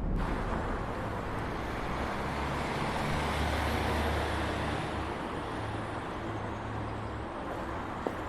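Steady vehicle and road noise, a car-like rumble with no music over it. The low rumble swells through the middle and eases off near the end.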